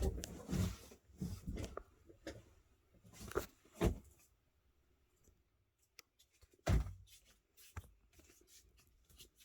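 Scattered knocks, taps and rustling handling noises in a small room, loudest at about four seconds and again at about seven seconds in.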